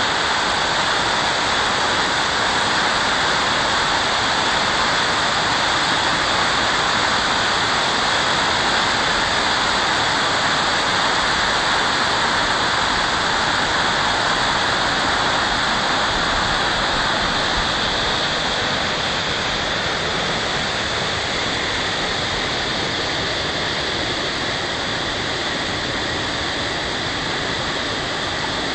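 Spring water of the Mototaki Fukuryusui falling over rocks as a wide cascade: a loud, steady rush of water.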